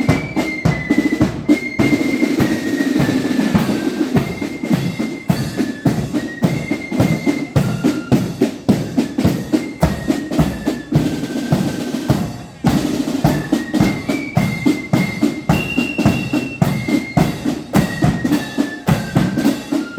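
Marching flute band playing a tune: a high flute melody of held notes over steady snare and bass drum beats. The playing breaks off briefly about twelve seconds in, then starts again.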